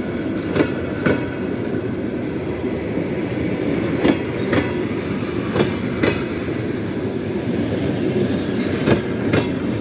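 Train wheels clacking over rail joints: paired knocks about half a second apart, repeating every couple of seconds over a steady rolling rumble.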